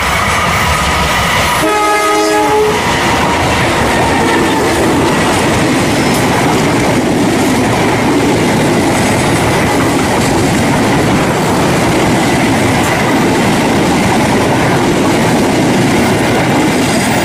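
KAI diesel locomotive sounding its horn as it approaches. A second blast about two seconds in bends down in pitch as it passes. Then comes the steady rumble and wheel clatter of the passenger carriages rolling by close at hand.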